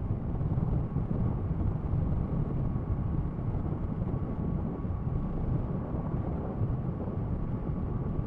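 Kawasaki ER-6f parallel-twin motorcycle running steadily at road speed, mixed with steady wind rush on the microphone, with a faint constant whine above it.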